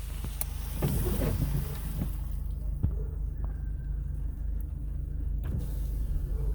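A motor vehicle's engine running steadily, with water swishing and splashing as traffic drives through deep floodwater.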